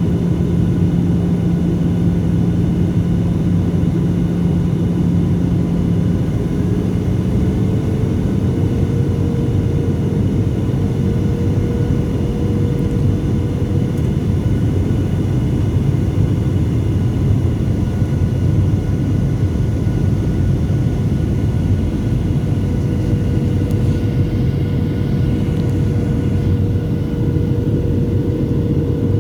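Steady roar of a Boeing 737-700 in flight: its CFM56 jet engines running, with air rushing past the fuselage. About six to eight seconds in, the engine note shifts as a low hum drops out and a higher tone rises slightly.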